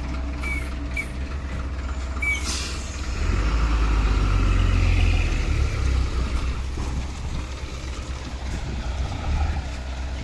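Diesel engine of a large Hino dump truck running. It gets louder for a few seconds from about three seconds in, with a short hiss of air just before.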